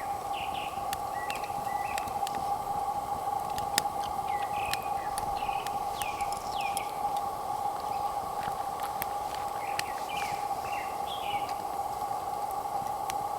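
Small birds chirping in short, often falling calls, over a steady two-tone drone, with scattered sharp clicks.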